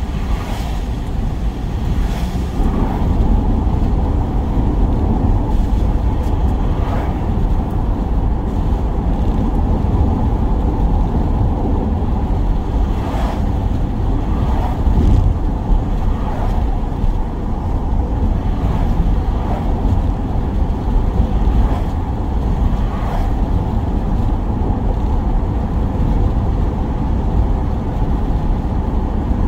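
Van driving, with a steady low rumble of engine and road noise and a few faint ticks.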